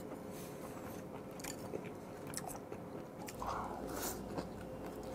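Chewing and mouth sounds of someone eating whole steamed squid, with a few small clicks.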